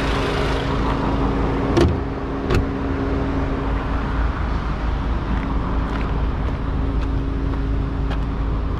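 Volkswagen Golf GTI Clubsport's EA888 2.0-litre turbocharged four-cylinder idling steadily, with two sharp knocks about two seconds in and a few faint ticks later.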